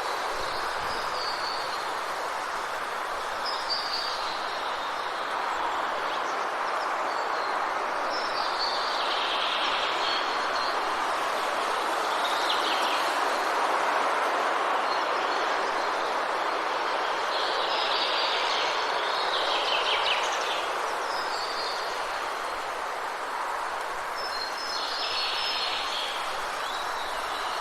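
Steady forest ambience: an even rushing hiss, like rain or wind in trees, with birds chirping in short bursts every few seconds over it.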